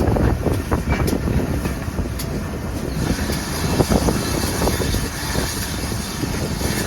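Heritage railway train running on the line: a steady rumble with scattered knocks and clicks from the wheels on the track.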